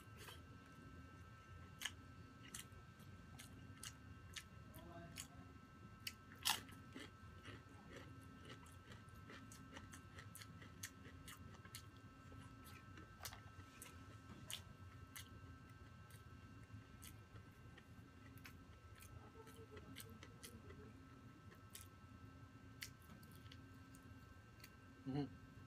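Close-miked chewing of crispy fried chicken skin and rice: scattered sharp crunches and wet mouth clicks, the loudest crunch about six seconds in. A faint steady hum runs underneath.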